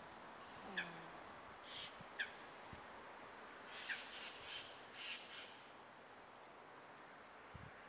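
Birds calling faintly: three short, sharp calls that drop in pitch, and a few harsher calls in the middle, over faint background hiss.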